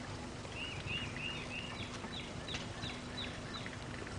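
A bird sings a run of repeated high chirps, first four arched notes and then several quick falling ones. Beneath it runs the low steady hum of the boat's motor and water.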